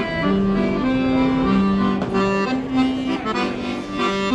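Accordion playing a tune in held notes that step from one pitch to the next about twice a second.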